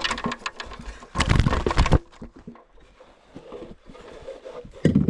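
A landed spotted bass being handled in a kayak: knocks and scuffing, with a loud rough burst of flopping and rubbing about a second in, quieter rustling after, and a sharp thump near the end.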